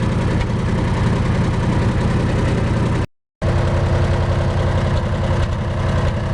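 Wisconsin VF4 air-cooled V4 engine of a 1947 Lincoln Pipeliner Jr welder running steadily at idle. The sound cuts out briefly about three seconds in, and after it a steady hum sits over the engine.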